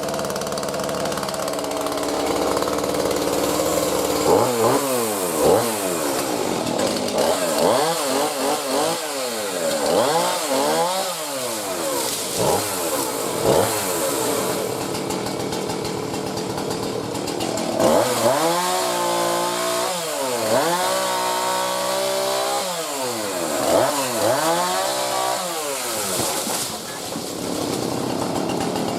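Two-stroke chainsaw idling steadily, then revved again and again about four seconds in, its pitch dropping and climbing back many times.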